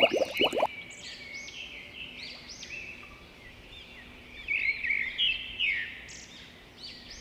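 Birds chirping in many short, overlapping calls that rise and fall, busiest about halfway through. In the first second the tail of a springy boing sound effect plays over them and cuts off.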